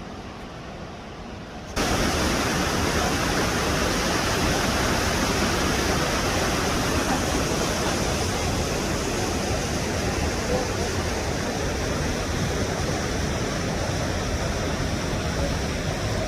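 Waterfall rushing: a steady, even roar of falling water. It starts suddenly and loud about two seconds in, after a quieter stretch of softer water or wind noise.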